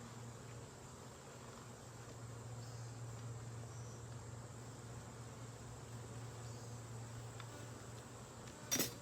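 Honeybees buzzing steadily around an open hive, a low, even hum. A single sharp knock near the end.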